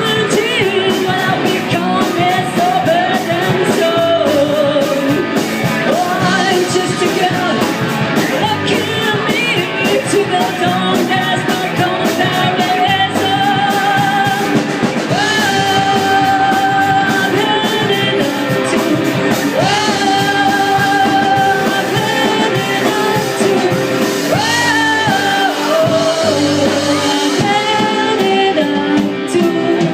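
Live rock band playing, with a lead singer over guitars and drums; the singer holds several long, wavering notes.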